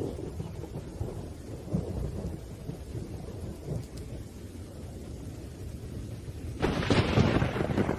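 Thunderstorm: low, rolling thunder rumbling under steady rain, with a sudden louder clap of thunder breaking in near the end.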